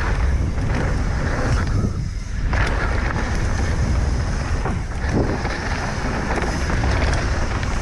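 Wind buffeting the microphone as a mountain bike rolls fast down a rough dirt trail, with a steady low rumble from the tyres and frame.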